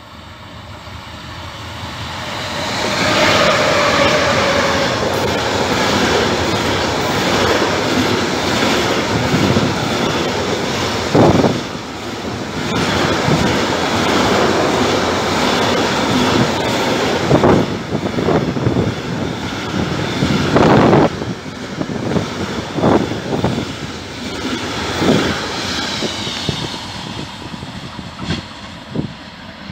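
Freight train hauled by two Siemens Vectron electric locomotives (E.193 650 and 553) running through the station with intermodal wagons. The sound grows as it approaches, then the wagons rumble past steadily, with a few sharp, louder wheel knocks along the way, before it eases off near the end.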